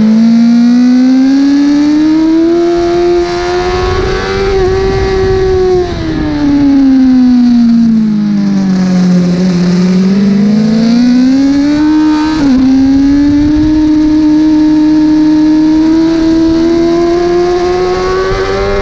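1000 cc superbike engine running at race pace. The revs climb, fall away slowly for several seconds as if into a corner, then climb again. A quick dip about twelve seconds in sounds like a gear change, after which the revs hold high and creep upward.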